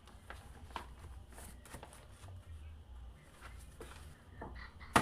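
Faint rustling and small handling clicks against a low room hum, with one sharp click near the end.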